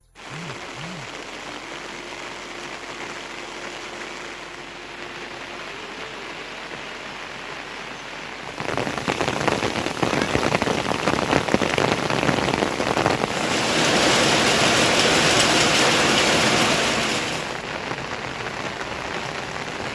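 Rain falling steadily, turning much heavier about eight seconds in with a dense patter of drops. It is at its heaviest for a few seconds near the end, then eases a little.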